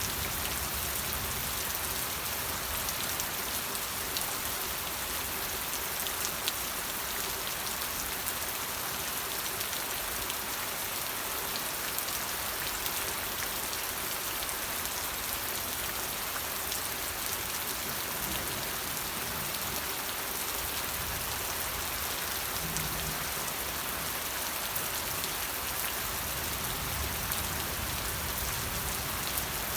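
Steady rain falling and pattering on a surface, with a fine hiss and scattered drop ticks.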